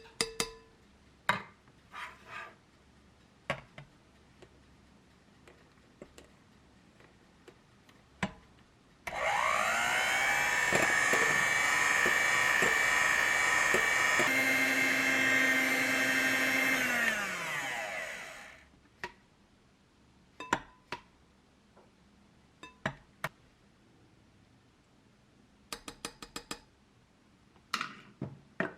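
Electric mixer whipping egg whites for cloud bread. It spins up, runs for about nine seconds with a change of speed partway through, then winds down. Light clinks and taps of kitchen utensils come before and after.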